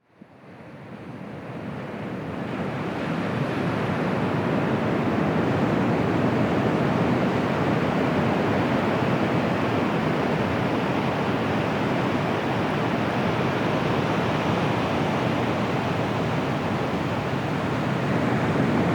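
Surf of the Bay of Bengal washing onto the beach: a steady rush of breaking waves that fades in over the first three seconds.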